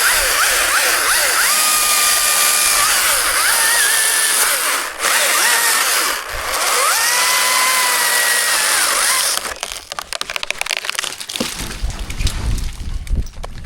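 Chainsaw cutting wood, its engine pitch rising, holding and dropping again as the throttle is worked, with two brief let-offs. It stops about two thirds of the way through and is followed by a run of cracks and knocks.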